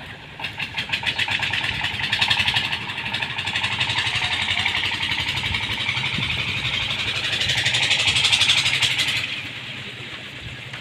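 A small motor vehicle's engine, most like a motorcycle, running close by with fast, even firing pulses. It grows louder, then drops away sharply about nine seconds in.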